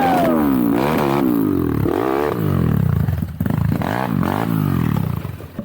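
Enduro motorcycle engine revving, its pitch rising and falling several times, dropping away near the end.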